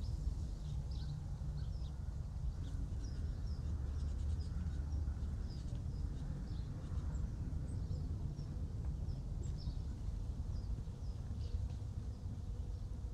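Open-field ambience: small birds chirping in short, scattered high calls over a steady low rumble.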